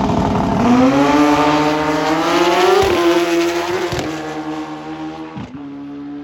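Drag racing motorcycle accelerating hard down the strip: the engine note climbs, drops sharply at three gear changes and fades as the bike pulls away.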